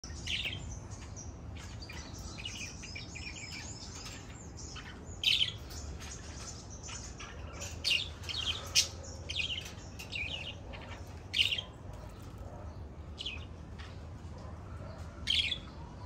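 Small songbirds chirping and twittering in short, high bursts, with a busier run of twittering in the first few seconds and then single louder chirps every few seconds, over a steady low background hum.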